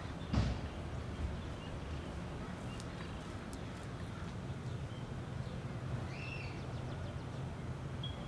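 Outdoor ambience: a steady low rumble with a thump about half a second in and a few faint bird chirps near the end.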